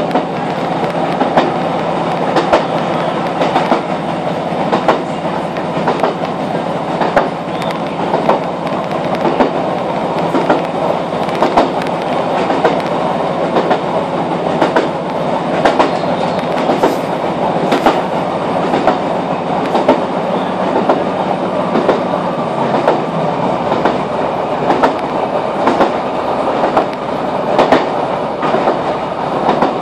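Class 156 diesel multiple unit running at speed, heard from inside the carriage: a steady rumble of wheels and underfloor diesel engine with frequent sharp clicks of the wheels over rail joints. The low engine note drops slightly about three-quarters of the way through.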